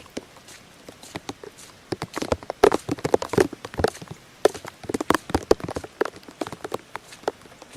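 Water splashing and dripping in irregular sharp splats, clustered in quick runs and then thinning out.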